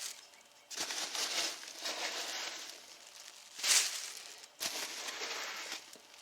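Polystyrene packing peanuts rustling in several bursts as hands dig through them in a cardboard box, with a short louder burst just under four seconds in.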